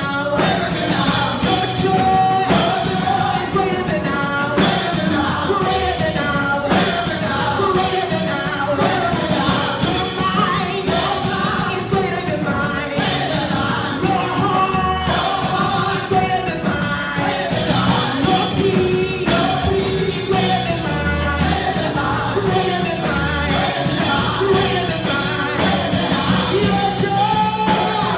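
Live worship band playing with singing, drums and a steady beat.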